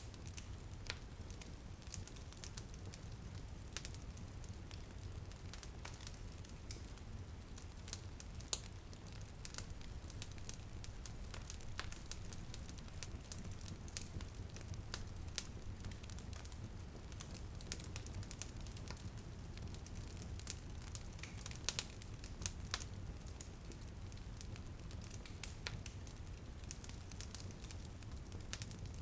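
Wood fire crackling in a fireplace: irregular sharp pops and snaps, a few louder ones about 22 seconds in, over a steady low rumble.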